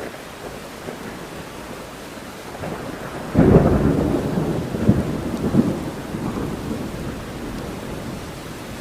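Steady rain with a thunderclap that breaks suddenly about a third of the way in. It rumbles on with a few louder peaks for about three seconds, then fades back under the rain.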